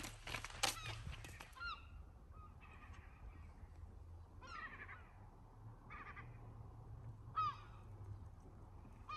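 Birds calling: short, faint calls that bend downward in pitch, repeated every second or so. A few crunching footsteps on gravel come at the start.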